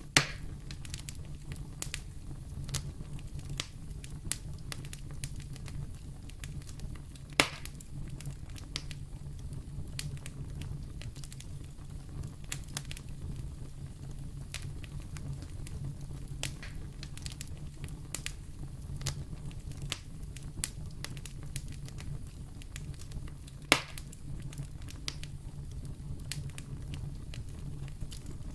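Wood fire burning in a fireplace: a steady low rumble with frequent small crackles and three louder pops, near the start, about a third of the way in and near the end.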